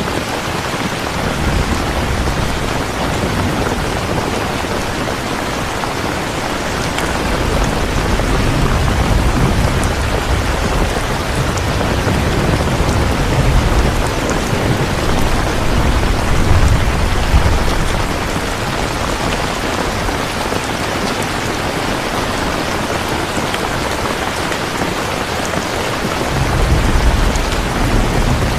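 Steady rain falling, with low rolling thunder that swells up several times: briefly near the start, longest through the middle, and again near the end.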